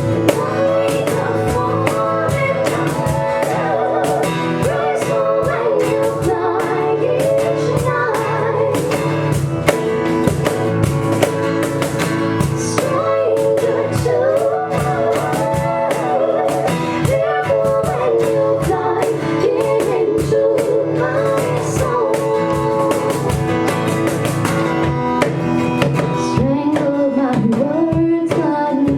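Live band playing a song, with singing over a steady drum-kit beat and guitar.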